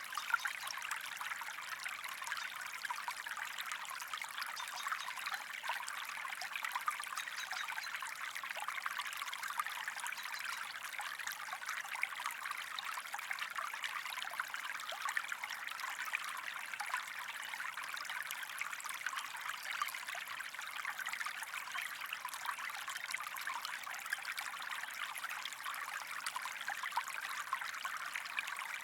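Running water in a stream, trickling and splashing steadily with a dense patter of small droplet sounds.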